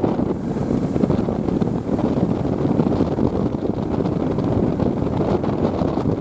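Wind buffeting the microphone: a steady low rumbling roar with no breaks.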